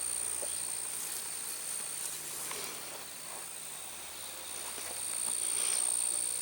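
Insects singing outdoors: a steady, unbroken high-pitched tone.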